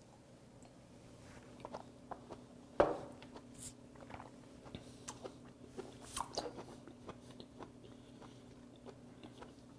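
Close-miked chewing of raw stone sea squirt: soft, wet, irregular clicks and smacks of the mouth, with one sharper click about three seconds in. A faint steady hum lies underneath.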